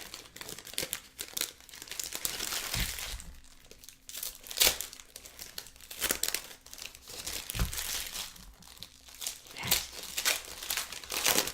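Trading card pack wrappers crinkling and tearing as packs are ripped open and the cards handled, with irregular crackles and a few soft thumps.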